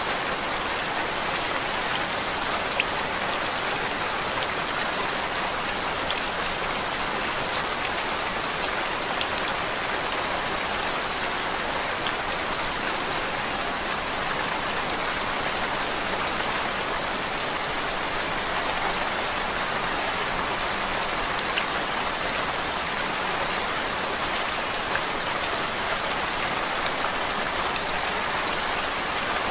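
Steady rain: an even hiss of rainfall with many small drop ticks scattered through it, unchanging throughout.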